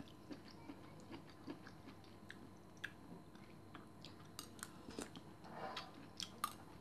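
Faint eating sounds: soft chewing with small scattered mouth clicks and light clicks of a metal spoon against a soup bowl, growing a little busier and louder in the last couple of seconds.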